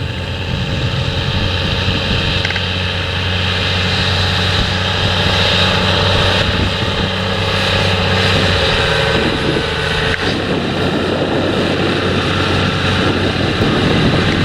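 Heavy farm machinery running steadily: a potato harvester and tractor engines under load, with a steady low engine hum whose note shifts about two-thirds of the way through.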